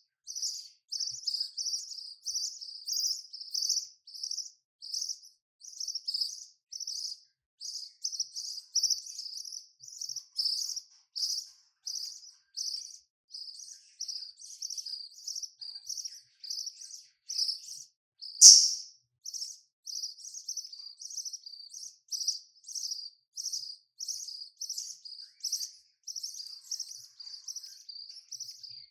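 Budgerigars chirping in a quick, steady run of short high chirps, about two or three a second, with one much louder chirp about eighteen seconds in.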